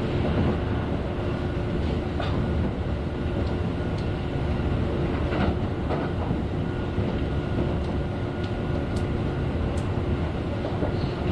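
Kintetsu express train running at speed, heard from inside the passenger car: a steady rumble of wheels on rail with a faint steady hum, broken by a few sharp clicks.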